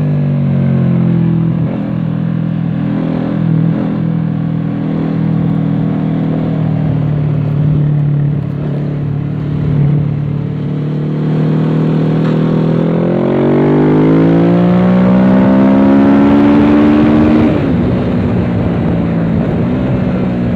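Kawasaki Z650 parallel-twin engine through a Dominator exhaust, heard onboard while riding: it runs at a steady pitch, then revs up smoothly for about six seconds before the note drops abruptly, then holds steady again.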